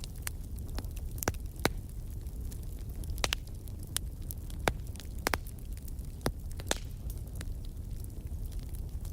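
Fire burning in a fireplace: a steady low rumble with irregular sharp crackles and pops scattered through it.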